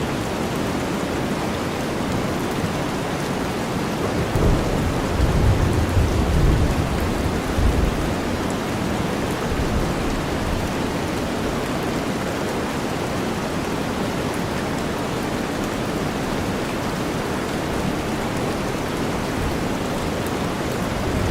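Steady rain over a deep white-noise hiss, with a low rumble of thunder starting about four seconds in and fading out a few seconds later.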